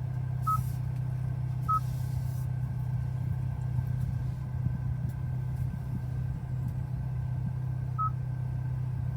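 Three short, identical high beeps from the Hyundai i20N's infotainment touchscreen as menu items are tapped: two close together near the start and one near the end. A steady low hum runs underneath.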